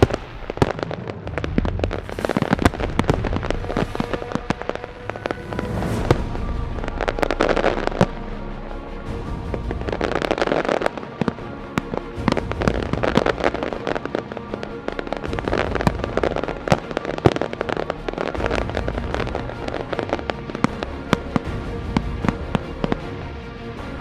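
Aerial fireworks bursting and crackling in rapid, overlapping succession, with heavier swells of bangs about a third and halfway in.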